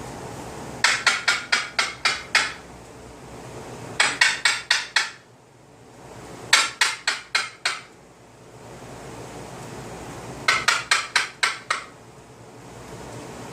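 Pet bird making four bursts of quick, sharp, repeated notes, about six a second and seven or so to a burst: a harsh, grating noise.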